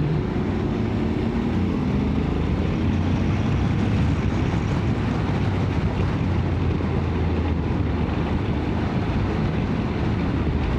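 Motorcycle engine running at steady road speed, with wind rushing over the microphone.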